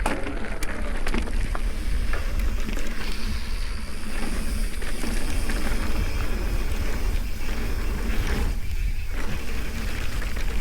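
Mountain bike descending a dirt trail: tyres rolling over rough ground and wind rushing over the microphone, with frequent small clicks and rattles from the bike.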